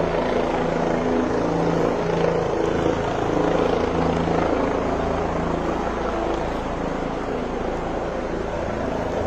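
Helicopter running: a steady drone of engine and rotor noise with a constant low hum, not changing in pitch.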